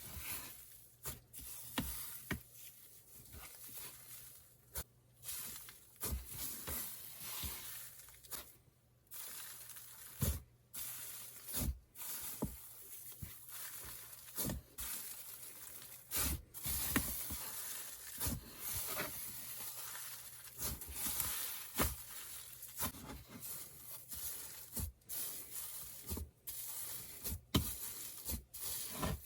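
Icy slime being squished, stretched and poked by hand, making a sizzly crackle with irregular soft clicks and pops.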